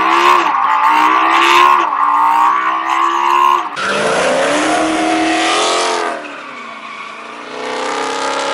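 Audi R8's V10 engine accelerating hard under launch control, its pitch climbing and dropping back twice at quick upshifts. After an abrupt change about four seconds in, another car's engine revs up and down while driven hard, dipping quieter for a moment before picking up again.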